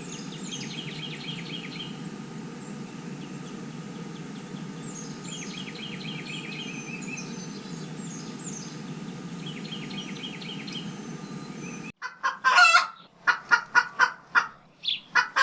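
A songbird repeating a quick trilled phrase three times over a steady low rumble. About twelve seconds in, the sound cuts abruptly to a loud run of sharp chicken clucks and squawks.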